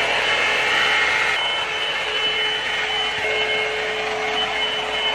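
Hot air brush hair dryer running, with a steady rush of blown air and a motor whine. It stops abruptly near the end.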